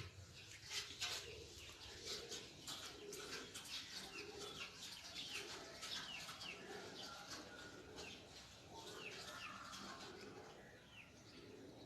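Pigeons cooing, a low call repeated about once a second, with many high, short falling chirps over it.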